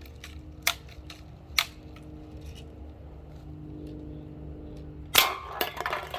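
A couple of light clicks, then about five seconds in a BB gun shot followed by a clatter of struck aluminium cans falling.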